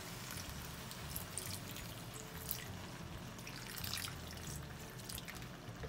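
Water pouring from a plastic bottle into a stainless steel wok of ground pork and potatoes, trickling and splashing irregularly.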